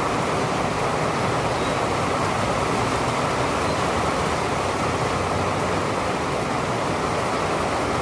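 Steady rain falling, an even rushing noise with no distinct drops, knocks or thunderclaps standing out.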